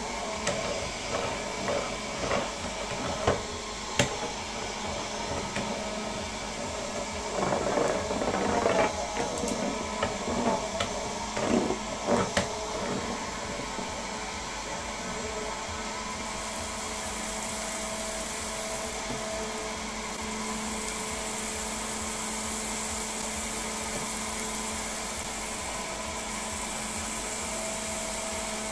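A small electric motor running steadily with a whine and hiss, with scattered knocks and clatter in the first half; the hiss grows stronger a little past the middle.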